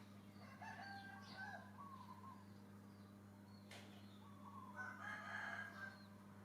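Faint animal calls in two short bouts of pitched, gliding notes, the second about five seconds in, over a steady low electrical hum, with a single click partway through.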